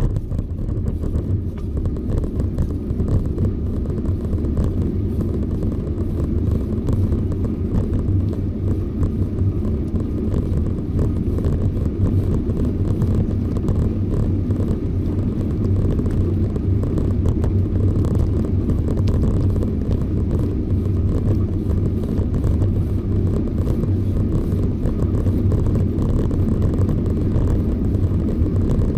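Steady low rumble of wind and road noise picked up by a camera riding on a moving bicycle.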